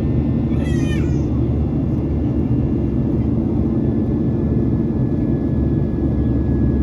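Steady cabin noise of a Boeing 737-800 in flight, heard from inside the cabin: a deep, even rush of engine and airflow sound. A brief high, wavering chirp comes about a second in.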